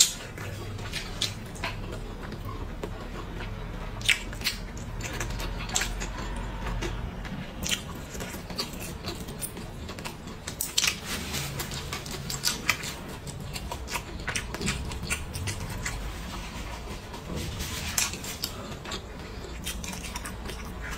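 Close-miked chewing of braised meat: wet mouth sounds with irregular clicks and smacks.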